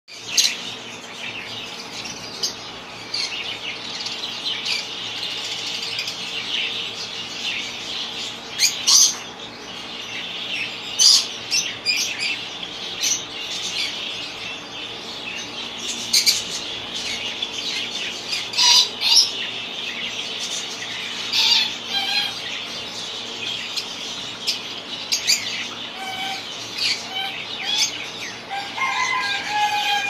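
Many caged birds chirping steadily, with short, sharp, loud calls every second or two and some lower gliding calls near the end.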